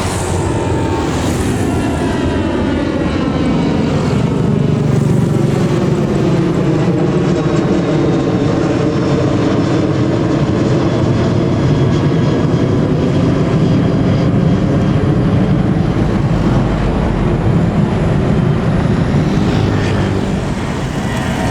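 Airliner engines passing low overhead, a loud steady rumble whose tones slowly bend in pitch as it goes by.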